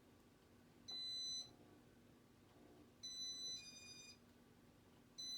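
Electronic beeps from a Casablanca ceiling fan's control as a button code is keyed in slowly: three short high-pitched beeps about two seconds apart, the middle one followed at once by a second beep of a different pitch.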